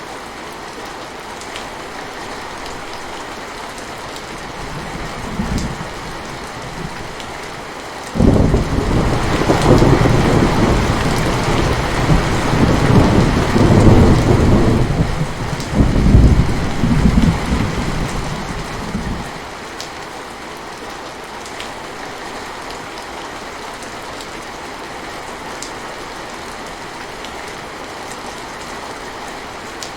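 Steady rain falling, with a peal of thunder that breaks in suddenly about eight seconds in, rumbles for some ten seconds and fades away.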